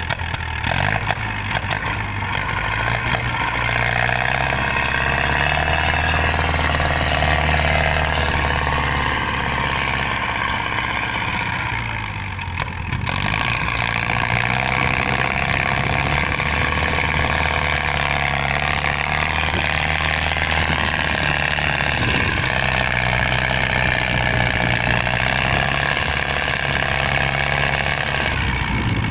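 Tractor diesel engine running steadily under load, with a dip in level about halfway and an abrupt change just after.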